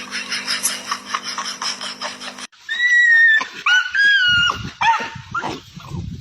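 A dog's high-pitched whining cries, several in a row, each bending in pitch. They come after a cut from a rapid, evenly repeating clatter over a steady hum.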